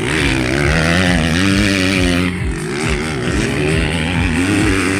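Several MX2-class motocross bikes racing on the track, their engines revving up and down as the riders work the throttle, with the pitch rising and falling continuously.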